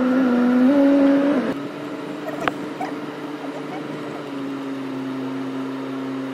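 Car engine heard from inside the cabin, a steady hum that eases off and drops in level about a second and a half in as the car slows. A single sharp click comes about two and a half seconds in.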